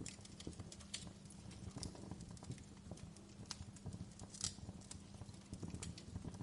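Wood fire crackling in a fireplace: irregular sharp pops and snaps over a low steady rumble of flames, with a louder snap about four and a half seconds in.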